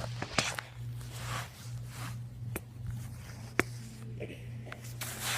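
A toy monster truck knocking and clattering during a backflip attempt: a few sharp knocks, the loudest about three and a half seconds in, among rustling handling noise over a steady low hum.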